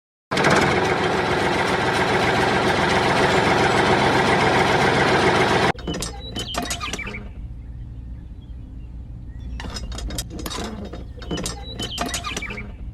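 A loud, dense rushing noise that cuts off suddenly after about five seconds, followed by a small motor humming steadily, with two bursts of rapid mechanical clicking and clinking.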